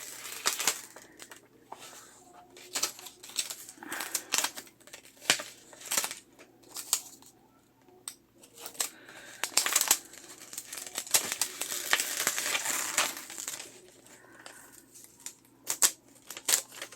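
Fingers picking and scratching at a roll of tape to find and lift its end, with irregular crinkly rustling and clicking of paper and tape.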